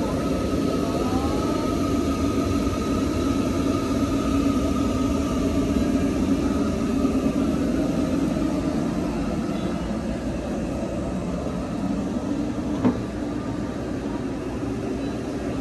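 Steady rumble of a train running on rails, with a single sharp click about thirteen seconds in.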